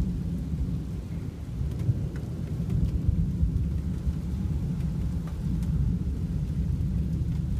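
Thunder rolling as a long, steady low rumble, with a few faint ticks over it.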